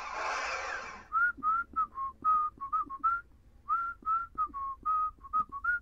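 A whistled tune in short, clear single notes with small slides between pitches, opening a song. About a second of hissing noise comes before the first note.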